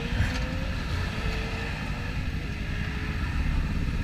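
Motorcycle engine running at road speed, its pitch rising for the first second and then holding steady, under a heavy rumble of wind on the microphone.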